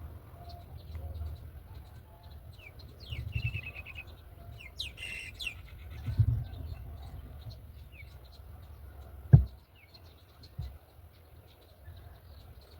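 Birds calling in short high chirps, with a louder, harsher burst of calls about five seconds in, over a low rumble like wind on the microphone. A single sharp thump, the loudest sound, comes about nine seconds in.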